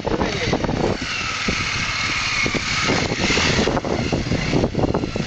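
Honda NX250's single-cylinder four-stroke engine running steadily as the motorcycle is ridden along.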